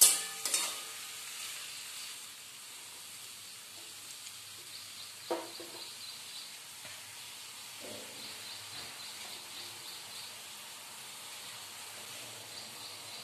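Bitter gourd slices in tamarind-jaggery water sizzling steadily in a steel kadhai. A metal spatula scrapes and clanks against the pan right at the start, and two short knocks come about five and eight seconds in.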